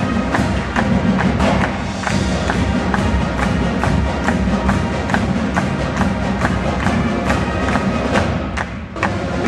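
Marching band playing, wind instruments holding sustained notes over a steady beat of sharp percussion strikes, about two to three a second. The sound briefly drops near the end.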